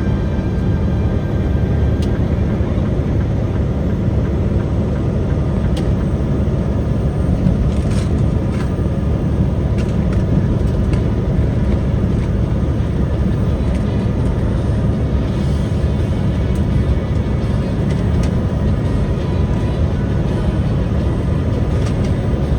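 Steady low rumble of a truck on the road: engine and road noise, unchanging throughout.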